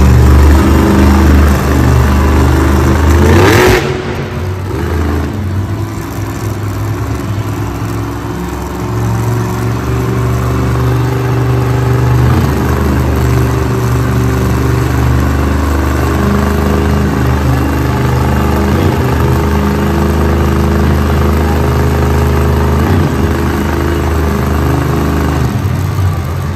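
Grave Digger monster truck's supercharged V8 running under heavy throttle, revving up and down. About four seconds in there is a short, sharp burst, after which the engine holds fairly steady revs.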